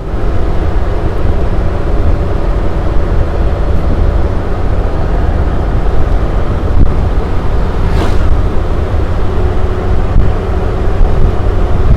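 1955 Mercedes 300 SL Roadster's 3.0-litre straight-six running while the car is driven, a steady low rumble with road and wind noise. A single short click comes about eight seconds in.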